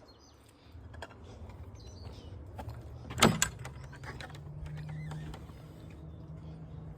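A sharp knock about three seconds in, with a smaller one just after, then a small electric motor running steadily for the last few seconds.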